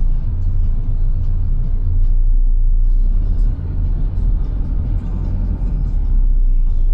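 Steady low rumble of a car's engine and tyres heard from inside the cabin.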